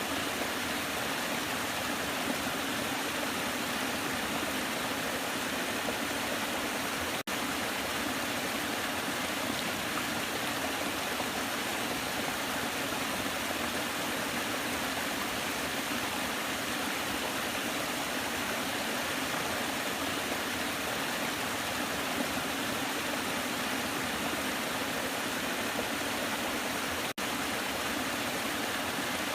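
Waterfall: steady, dense rushing of falling water, broken by two momentary dropouts, one about seven seconds in and one near the end.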